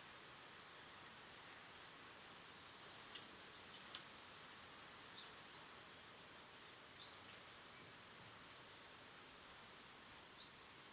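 Small birds chirping faintly over a steady wind hiss: a run of quick high chirps about three to four seconds in, then a few single short falling chirps a couple of seconds apart.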